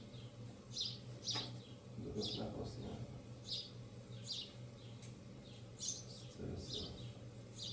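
A small bird chirping over and over, short high notes that drop in pitch, about one or two a second.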